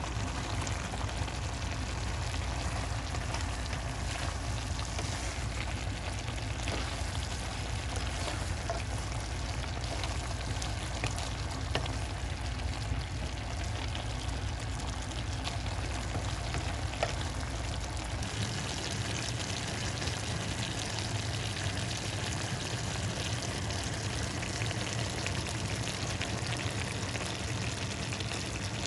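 Steady sizzling of food frying in a pan, with small scattered crackles, over a low hum that cuts out about two-thirds of the way through.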